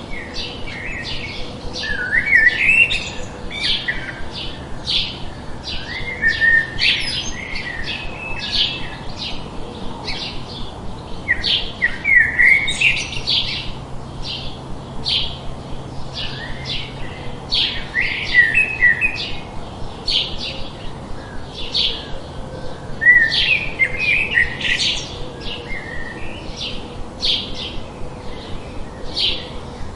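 Songbirds chirping: short, high calls repeating about two or three times a second, with longer warbling phrases every few seconds, over a steady hiss of background noise.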